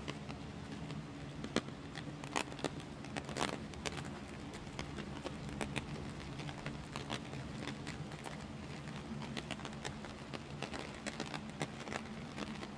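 Heavy rain drumming on an umbrella overhead: a steady wash of rain with irregular sharp taps of large drops striking the canopy.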